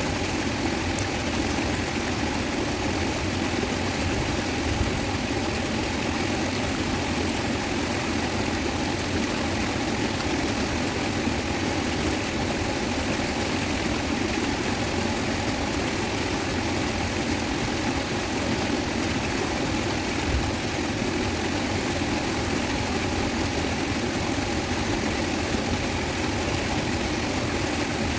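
Fast-flowing river water rushing over its bed, a steady, unbroken roar.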